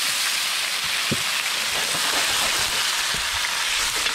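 Halved marron (freshwater crayfish) sizzling in smoking-hot oil in a steel wok-style pan, a steady hiss with scattered pops and crackles.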